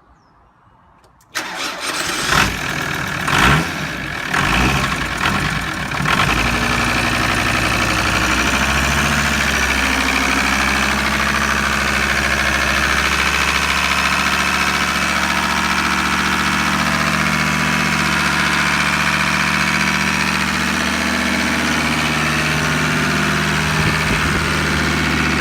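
Volvo V70's 2.5 TDI D5252T five-cylinder turbodiesel starting: it cranks about a second in, fires unevenly for a few seconds, then settles into a steady idle.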